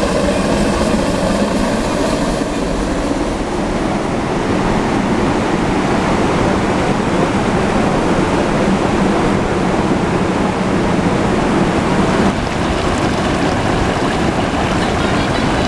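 Narrow-gauge passenger train rolling down the grade: a steady, loud rumble and rush from the wheels on the track.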